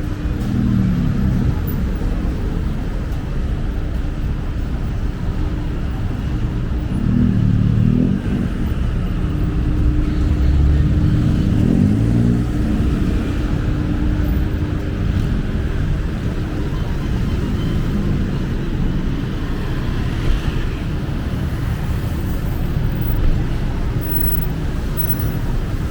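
Busy road traffic: a steady rumble of engines, with several vehicles passing close by, their engine pitch rising and falling. A steady hum runs through the first half.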